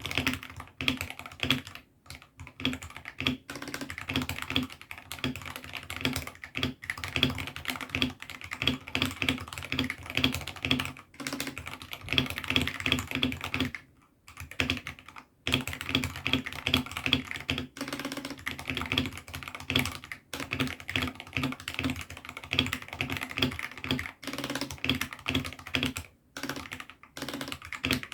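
Typing on a hot-swappable 68-key mechanical keyboard fitted with AKKO Sakura switches: a fast, continuous stream of keystroke clacks, pausing briefly about 14 and 26 seconds in.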